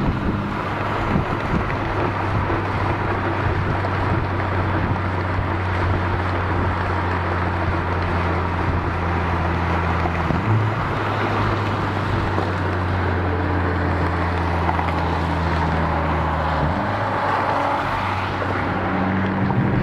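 Honda Civic Type R FK8's turbocharged 2.0-litre four-cylinder, with a catted downpipe and the stock cat-back exhaust, heard through an exhaust-mounted mic while it drives at steady low revs. There is a brief blip a little past halfway, and near the end the engine note jumps suddenly higher and holds there.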